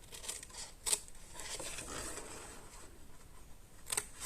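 Scissors snipping through cardstock, cutting small squares out of a gift-box template: sharp snips about a second in and again near the end, with faint paper rustling between.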